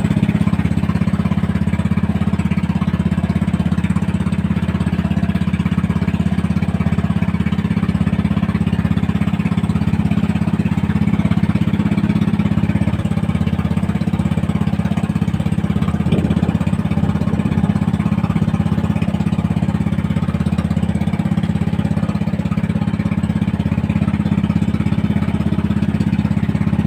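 Small fishing boat's engine running steadily, a constant low drone.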